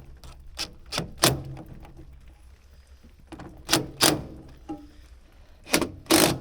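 A series of sharp knocks, irregular and often in pairs, each with a short ring: hand tools striking and setting parts during repair work on a backhoe.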